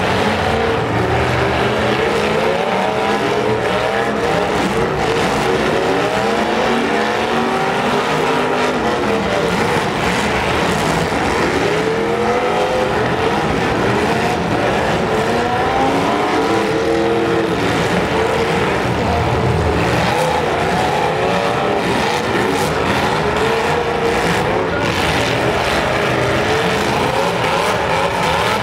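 Several demolition derby cars' engines revving hard at once, their pitch rising and falling over and over as the cars accelerate across the dirt arena.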